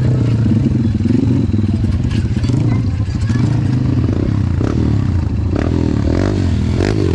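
Trail dirt-bike engines running, with the pitch rising and falling as the throttle is worked in the second half. The sound cuts off abruptly at the very end.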